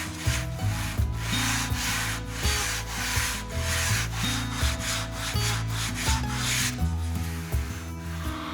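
Hand sanding of PVC foam with a sanding block: quick back-and-forth rasping strokes, about two to three a second, that stop about seven seconds in.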